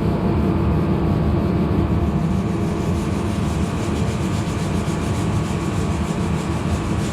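A machine running steadily and loudly with a dense low rumble, without a break; probably a tool cleaning metal parts.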